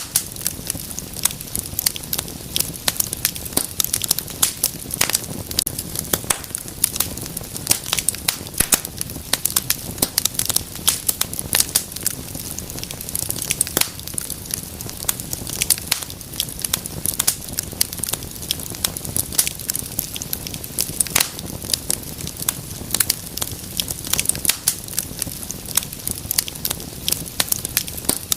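Wood fire in a fireplace crackling, with rapid irregular pops and snaps over a steady low rush of the flames.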